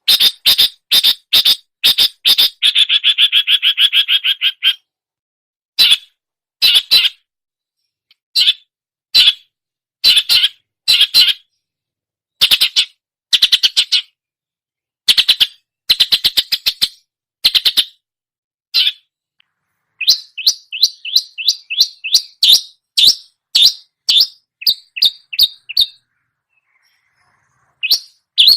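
Long-tailed shrike (cendet) singing mimicked songbird phrases: high, rapid series of repeated chattering notes in short bursts with silent gaps between them, including one longer trill about three seconds in.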